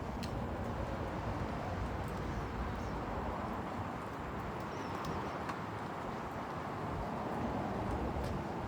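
Steady background noise with a few faint clicks.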